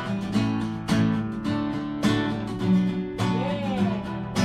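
Acoustic guitar strumming chords, with a sharp downstroke about once a second and the chords ringing on between them.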